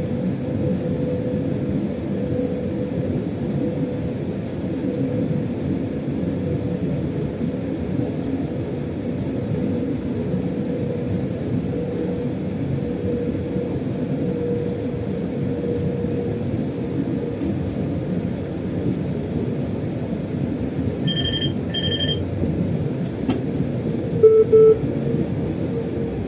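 Freight locomotive running, heard inside the driver's cab: a steady rumble with a faint steady hum. About 21 seconds in, two short electronic beeps sound, then a click and a brief, louder low tone near the end.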